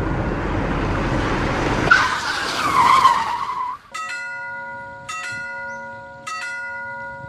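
Animated railroad-crossing sound effects: a train rushing past, with a high wavering squeal in the second half of its pass, cutting off about four seconds in. The crossing bell then rings on its own, about one strike a second.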